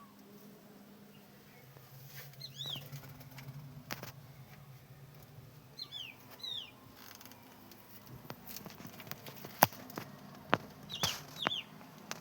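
Birds in a pigeon loft: short high falling chirps, usually in pairs, heard three times. Several sharp claps or knocks are mixed in, the loudest in the second half, over a low steady hum.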